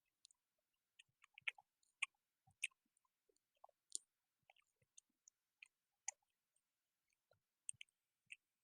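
A person chewing food close to the microphone: faint, irregular wet mouth clicks and smacks, a few each second.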